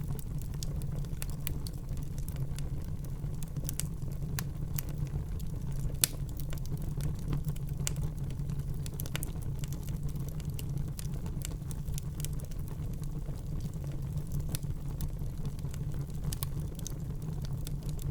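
Fire burning in a fireplace, crackling with irregular sharp pops over a low steady rumble; one louder pop about six seconds in.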